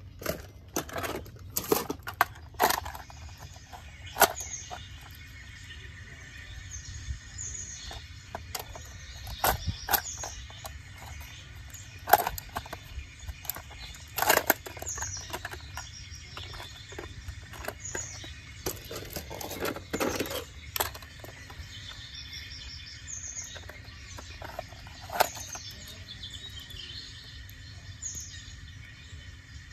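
Small birds chirping in short high calls over a low steady rumble, with scattered sharp knocks and clacks, the loudest about twelve, fourteen and twenty-five seconds in.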